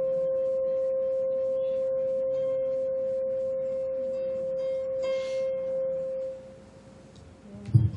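A 528 Hz tuning fork ringing with one steady pure tone, fading away about six seconds in. A low thump comes near the end.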